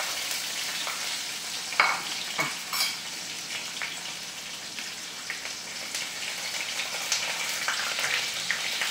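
Food frying in oil in a wok on a gas stove, a steady sizzle, with a few sharp clinks of a spoon against the plate or pan about two seconds in.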